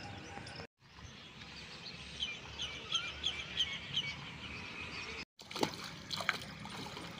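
A bird gives a quick run of about seven short chirps over outdoor background noise. Near the end come a few sharp splashes, as someone wades through shallow floodwater.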